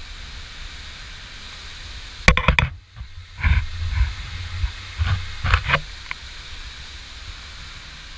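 Hurricane Irma's strong winds rushing, with heavy buffeting on the microphone. A sharp gust hits about two seconds in, and several more follow over the next few seconds before the steady rush returns.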